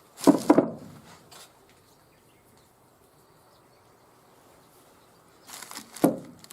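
Small metal parts or tools clattering as they are handled and set down on a workbench during carburetor disassembly: a short burst of knocks near the start and another near the end.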